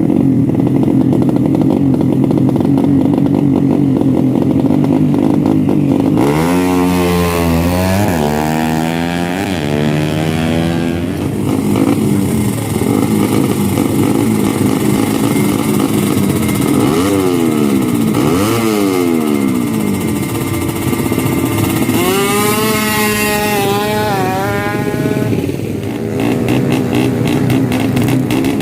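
Drag-racing motorcycle engines running loud: a steady engine note, then revs sweeping up and down several times, with a higher, wavering rev near the end.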